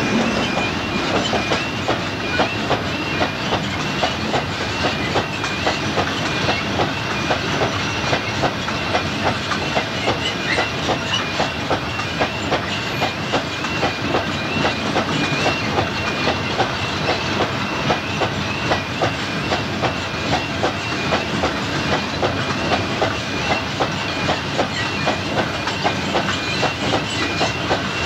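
Loaded MGR coal hopper wagons rolling past, their wheels clacking over the rail joints and crossing in a steady rhythm of about two beats a second. A warbling alarm tone, the level crossing's alarm, sounds above it.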